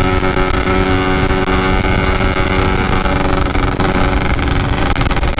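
Yamaha RX-King's single-cylinder two-stroke engine pulling at steady high revs while riding, with low wind rumble on the microphone. The rider has said the engine is rattling badly.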